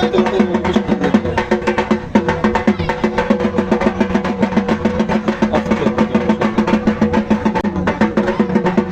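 Dhak drums beaten in a fast, continuous, rolling rhythm, many strokes a second, typical of Durga Puja drumming.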